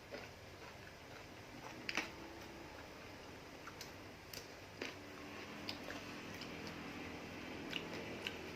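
A person eating spicy glass-noodle seafood salad: soft chewing with scattered small clicks, and sharper clicks about two seconds in and near the middle.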